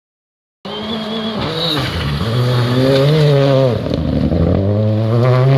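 Rally car engine revving hard, its pitch climbing and dropping back at gear changes, twice over; it starts abruptly about half a second in.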